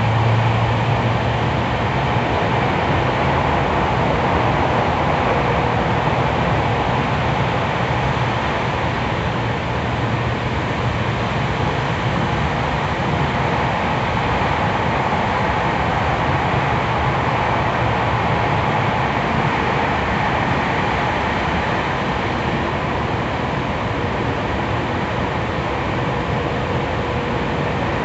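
Running noise heard inside a Tokyu 3000 series electric train car as it travels at a steady speed through a tunnel: a dense, even rumble of wheels and car body, with a low hum at the start.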